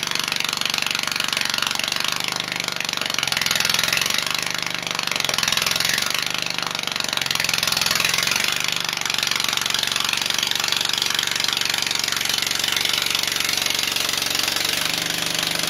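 Single-cylinder 16 hp cast-iron Briggs & Stratton engine of an MTD 990 garden tractor running while the tractor is driven, its pitch dipping and rising several times in the first half, then holding steady.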